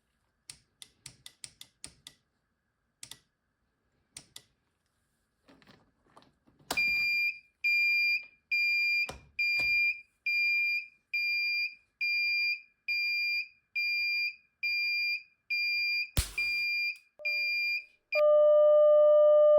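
Arduino rocket launch controller being operated: a few clicks of its key switch and push buttons, then its buzzer beeps a high note at a steady rate of a little over one beep a second. A single sharp crack comes near the end, and then the buzzer changes to a steady, lower continuous tone.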